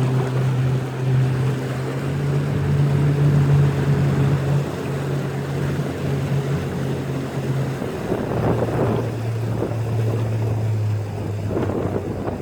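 Tour boat's motor running steadily under way, a low hum over the rush of water and wind; the hum shifts lower about eight seconds in.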